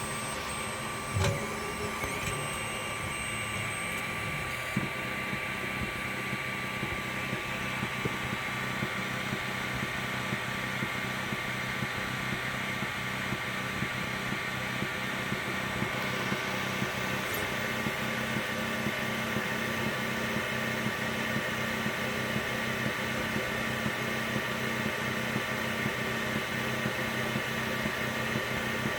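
Wanhao i3 Mini 3D printer printing: its stepper motors buzz and whine through a run of quick moves over the steady hum of the cooling fan. About twelve seconds in a strange noise joins, which the owner links to the printer stalling after each layer.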